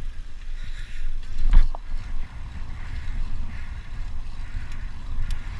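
Wind buffeting the microphone of a moving rider, an uneven low rumble, with a single knock about one and a half seconds in.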